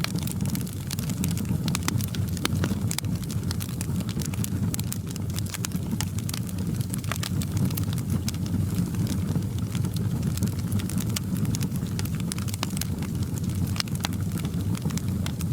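Fireplace wood fire crackling: irregular sharp pops and snaps over a steady low rumble of flames.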